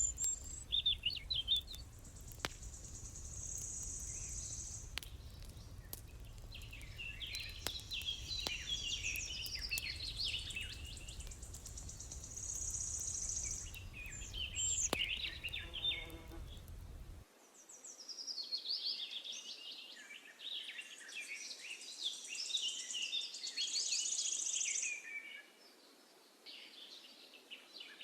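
Birds singing in repeated trilled and chirping phrases, with a few sharp clicks scattered through. A low steady rumble underneath cuts off suddenly about two-thirds of the way in.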